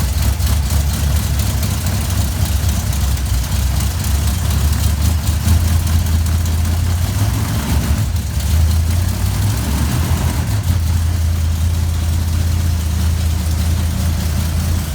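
A 1973 Dodge Dart Swinger's 340 small-block V8 idling steadily through its exhaust, with a couple of slight changes in engine speed around the middle.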